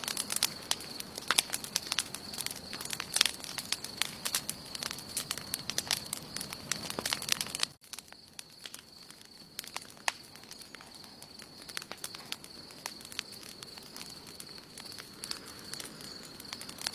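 Campfire wood burning and crackling with frequent sharp pops. About eight seconds in the level drops suddenly and the crackles become quieter and sparser. A steady high-pitched tone runs underneath.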